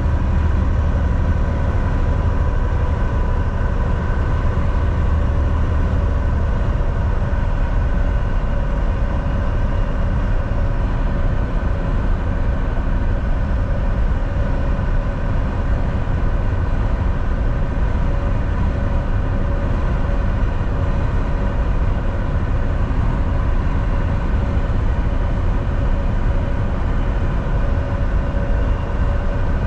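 Volvo VNL 760 semi-truck driving at speed, heard from inside the cab: a steady engine drone and road rumble with a constant hum over it. The deep rumble eases slightly about six seconds in.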